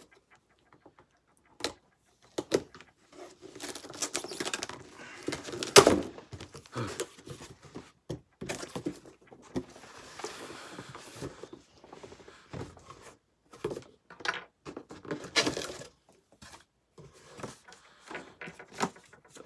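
A cardboard box being torn open and its contents handled: rustling and scraping of cardboard and packing, with irregular knocks and clicks and one loud thump about six seconds in.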